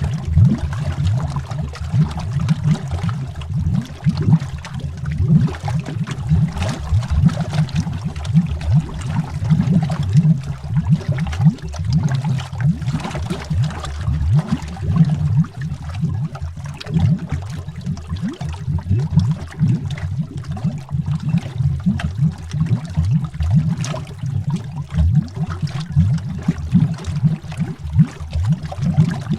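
Water bubbles heard underwater: a continuous, dense stream of rapid, irregular low blips and gurgles.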